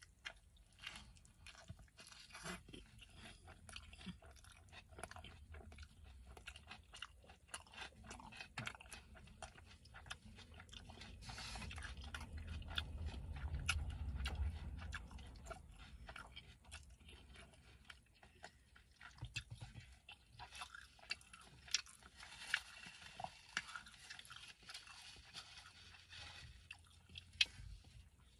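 Close-up wet chewing and mouth clicks of a person eating a juicy steak burrito, steady small smacks throughout. A low rumble swells up around the middle and fades again.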